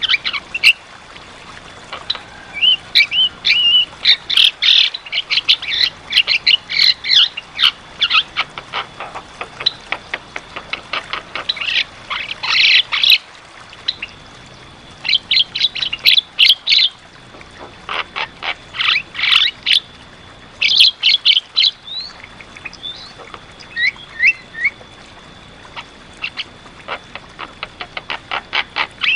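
Javan myna (jalak kebo) singing in full voice: rapid runs of short, sharp chattering notes in bursts separated by brief pauses, with a few short rising whistles near the end.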